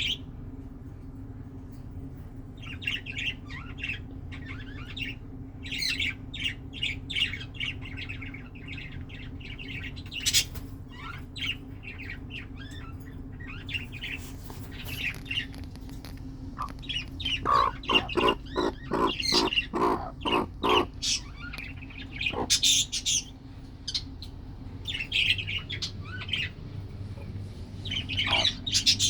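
Chicken chicks peeping in short high chirps throughout. About two-thirds of the way through, a hen gives a quick run of lower, evenly spaced clucks. A steady low hum runs underneath.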